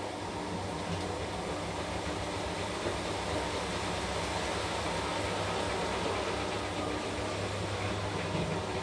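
Washing machine running with a steady hum and even noise.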